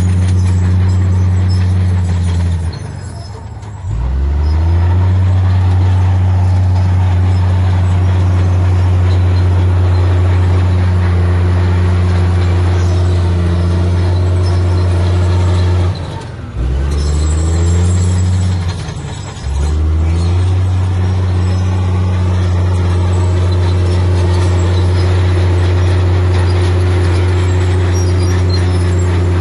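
Heavy diesel engine of earthmoving machinery running loudly and steadily. It eases off three times and revs back up each time: once about three seconds in, then twice close together a little past halfway.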